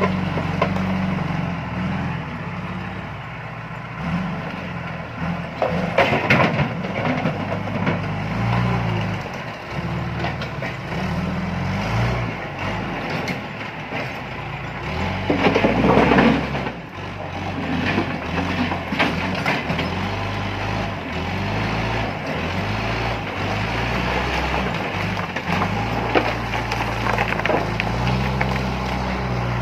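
Diesel engine of a John Deere 310E backhoe loader working, its pitch rising and falling as the loader is worked. There is a clattering rush of stones about six seconds in, and a louder, longer one about fifteen seconds in, as a bucket of stones is tipped into a truck.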